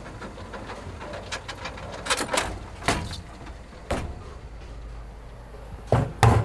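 A scatter of irregular clicks and knocks over a steady low hum, the two loudest close together near the end.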